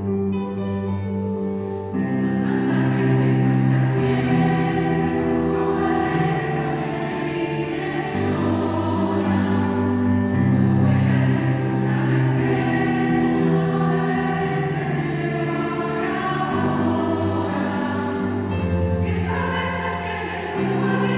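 Choir singing sustained chords in several parts, low and high voices together, growing louder about two seconds in.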